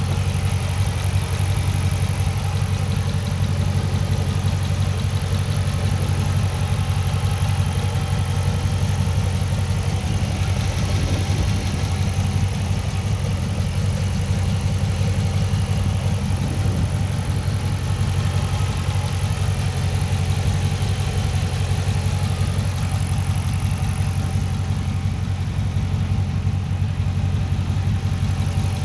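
2010 Dodge Charger SRT8's 6.1-litre Hemi V8 idling steadily through a loud modified exhaust, a deep, even idle with no revving.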